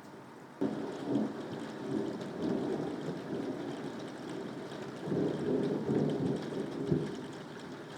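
Steady rain with a roll of thunder. The thunder breaks in suddenly about half a second in, rumbles and swells again past the middle with a sharp crack near the end, then fades back under the rain.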